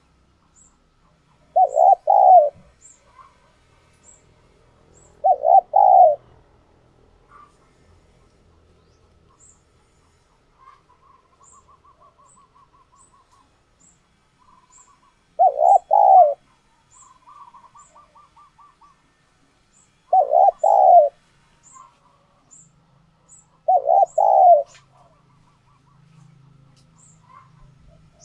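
Spotted dove cooing: five short phrases of a few quick coos each, spaced irregularly several seconds apart, with faint softer trilling notes between them.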